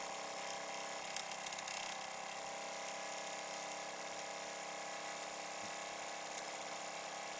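Ernst Plank vertical toy steam engine running steadily, a fast even whir with a brief spitting about a second in, which the owner takes for water being spat out of the engine.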